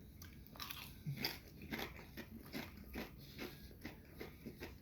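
Mouth chewing barbecue Doritos tortilla chips: a run of crisp crunches, about two or three a second, starting about half a second in.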